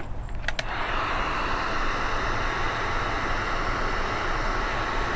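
A few clicks, then about a second in a heat gun starts blowing with a steady whoosh, shrinking heat-shrink tubing over a soldered headphone-wire joint.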